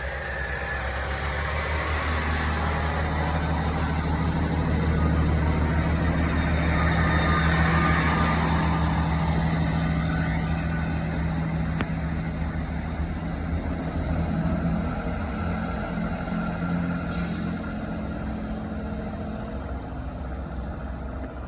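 Chiltern Railways diesel multiple unit pulling out of the station. Its diesel engines drone steadily, growing louder over the first several seconds, then slowly fading as it moves away.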